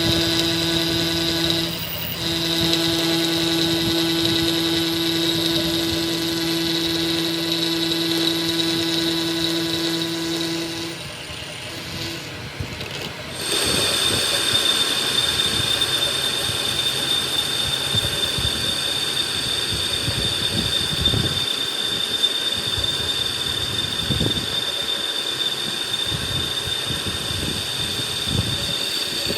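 A power tool runs steadily in two long stretches. The first lasts about eleven seconds with a low hum and a high whine, briefly stopping about two seconds in. After a short pause a second, higher-pitched run starts about thirteen seconds in, with scattered knocks.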